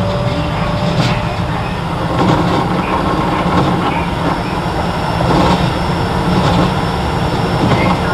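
Keio 7000 series electric train heard from on board while running: a steady rumble of wheels on rail, with occasional sharp clacks over rail joints and a faint whine in the first couple of seconds.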